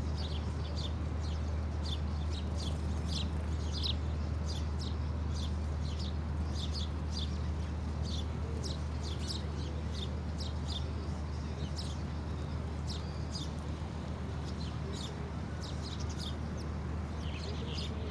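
Birds chirping: many short, high chirps a few times a second, with a steady low hum underneath.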